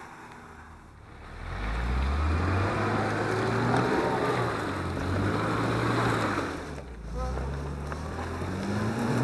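Off-road 4x4's engine revving hard under load through mud, with a dense rushing noise of churned mud and water. The engine picks up about a second and a half in, rises and falls in pitch, and eases briefly near seven seconds.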